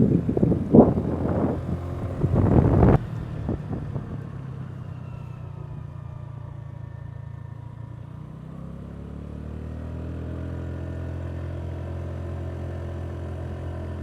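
Honda Navi's small single-cylinder engine running steadily under load, carrying two riders, its pitch slowly rising from about halfway through as it pulls up a gentle climb. A few loud thumps in the first three seconds.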